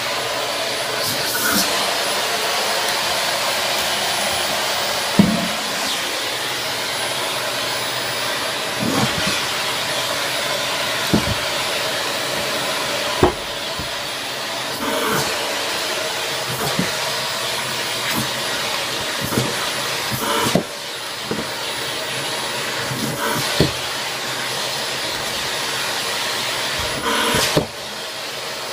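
Vacuum cleaner running steadily as it is used on a cat's fur, with a dozen or so short knocks and bumps scattered through.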